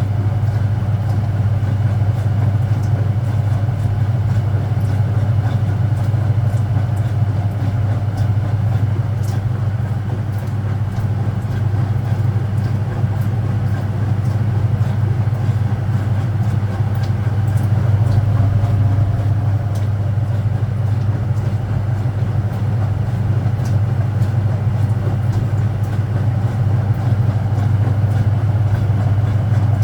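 Speed Queen top-loading washing machine spinning at full speed, a steady even hum with no change in pitch or level.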